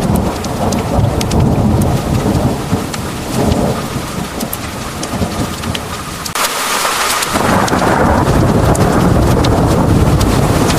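Heavy rain pouring steadily, with sharp drops ticking on a hard surface over a low rolling rumble of thunder. A little past the middle the rumble drops away for about a second, and the rain then comes on heavier.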